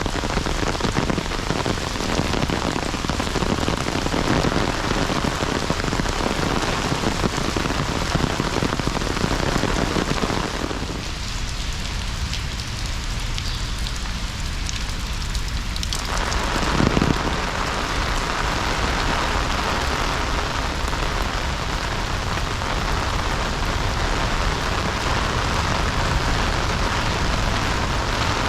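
Heavy rain falling steadily, a dense hiss of drops on surfaces; its deeper part thins out for several seconds in the middle, then returns.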